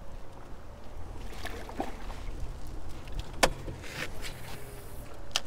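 Background noise of a fishing boat on the water: a steady low rumble with a few sharp knocks, the loudest about three and a half seconds in.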